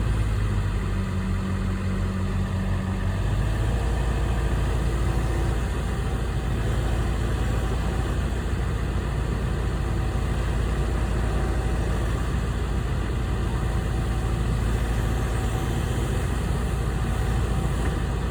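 An engine idling steadily, with a deeper droning tone over the first three seconds that then drops away.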